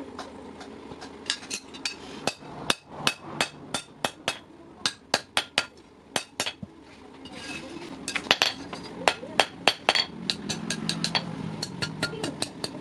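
Blacksmith's hammer striking hot steel on an anvil while forging a hasua blade: sharp ringing blows in uneven runs of a few strikes a second, coming faster and closer together in the second half.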